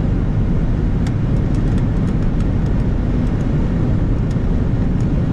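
Steady low rumble of road and engine noise inside a moving car, with scattered light ticks from about a second in.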